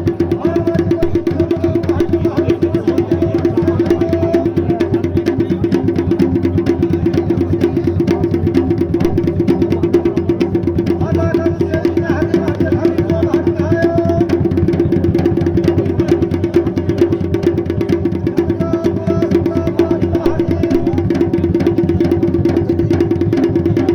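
Dhol and damau drums playing a fast, unbroken dance rhythm for a Pandav Nritya, with a steady drone beneath and a faint melody line that comes and goes.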